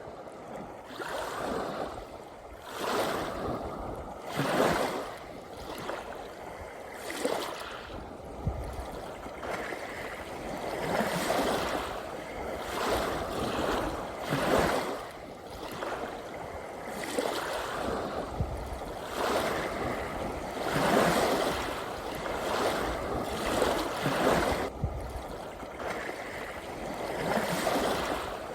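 Sea waves washing in, one surge after another every couple of seconds, with a low rumble now and then underneath.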